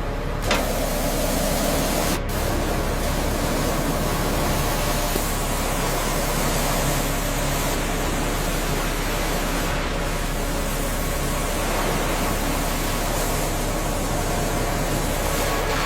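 High-pressure washer jet spraying, a steady hiss as the water blasts mud and moss off rusted steel.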